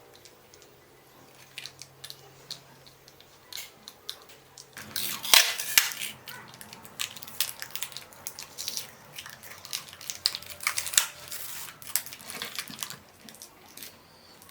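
Irregular clicks, taps and short scrapes of small hard parts being handled and worked on a bench. They start about five seconds in, sharpest then, and die away near the end.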